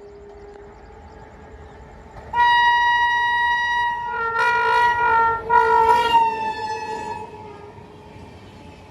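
A train horn sounds one long steady blast starting about two seconds in. It wavers and breaks briefly twice before fading out, over a low rumble of a train on the tracks.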